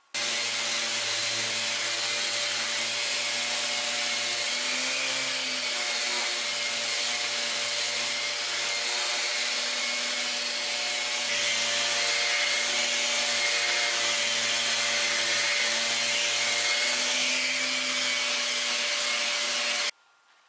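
Electric power tool running steadily: a loud even hiss over a low motor hum. It starts and stops abruptly and gets slightly louder about halfway through.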